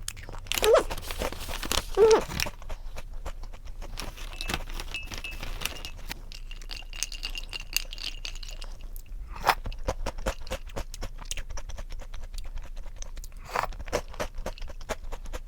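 Close-miked eating: crunchy food bitten and chewed with many irregular crunching clicks, and a couple of short hums early on.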